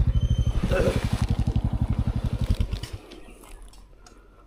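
Motorcycle engine running with a fast, even low thudding, fading away and dying out about three seconds in, as the bike pulls off.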